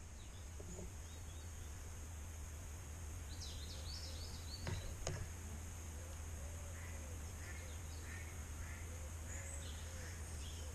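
Small birds chirping in short, scattered calls over a steady low hum, with two sharp clicks about halfway through.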